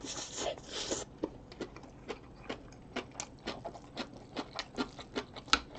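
Close-miked wet chewing of a mouthful of egg rice and kimchi. Two breathy sounds come in the first second, then quick, irregular mouth clicks and smacks, about three or four a second.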